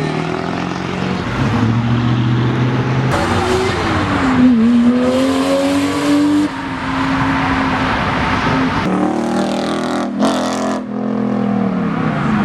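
A performance car engine revved hard several times, its pitch climbing, holding and dropping back.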